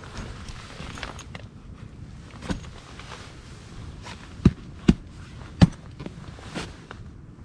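Five irregular sharp knocks over a low steady background, the three loudest coming close together just past the middle.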